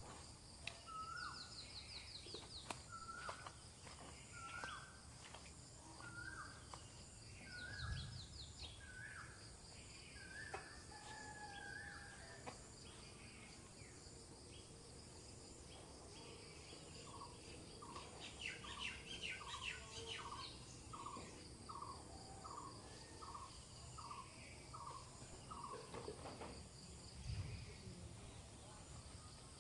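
Faint birds calling, one repeating a short note about once a second, then a quicker run of about two notes a second later on, over a steady high insect drone.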